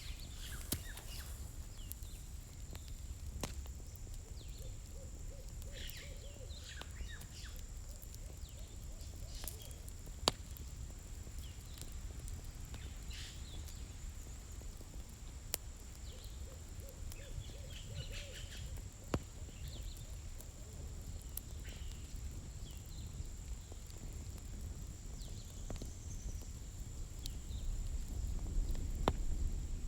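Campfire firewood crackling, with scattered sharp pops over a low steady rumble. Faint short animal calls come in a few times.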